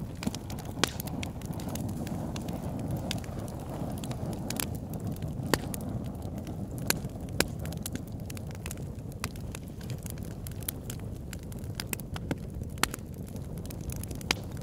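Wood fire crackling, with irregular sharp pops over a steady low rumble of wind.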